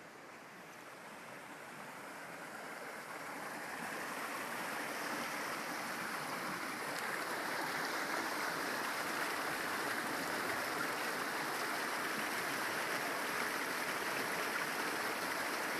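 Floodwater in a swollen creek rushing and churning, a steady rush that grows louder over the first several seconds and then holds.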